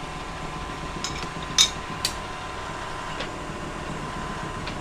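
A few sharp metal clinks, the loudest about a second and a half in, from a horizontal mill's table stop being set, over the steady hum of the powered-up mill.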